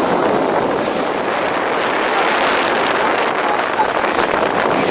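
Steady rush of wind and water aboard a boat underway, with wind buffeting the microphone.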